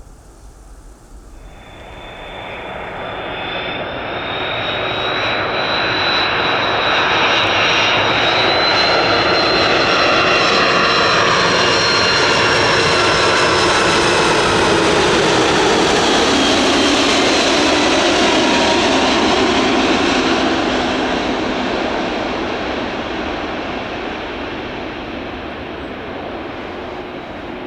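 KLM Airbus A330-200 jet airliner passing close by on its landing approach: the rush and whine of its engines build up, stay loud for several seconds with whining tones sliding down in pitch as it goes past, then slowly fade.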